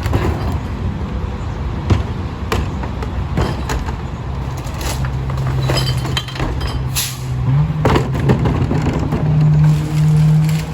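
Split-body garbage truck's engine running, with several sharp metallic clanks; about four seconds in the engine settles into a steady higher hum that steps up in pitch twice, as it speeds up to drive the packer.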